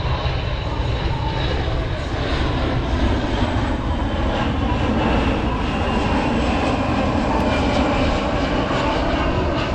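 Jet engines of a KC-135 Stratotanker making a low, slow pass: a steady, loud noise with a faint high whine.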